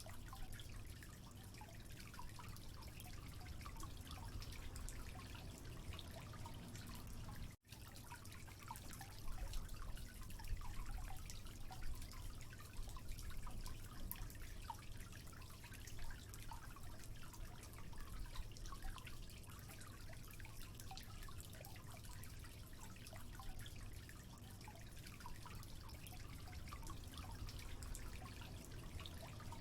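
Water trickling and dripping, a steady patter of many small drops and splashes. It cuts out for an instant about seven and a half seconds in, then runs on a little louder for a few seconds.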